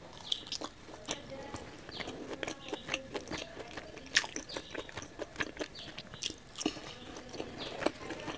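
Close-miked chewing and wet mouth sounds of a person eating curry and rice by hand: irregular lip smacks and small clicks throughout, with one sharp click about four seconds in.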